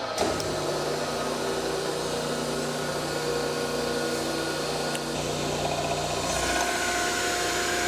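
Gallmeyer & Livingston No. 55 surface grinder running, its spindle motor humming steadily as the hydraulic pump is switched on right at the start. A single click comes about five seconds in, and a higher whine joins about six seconds in.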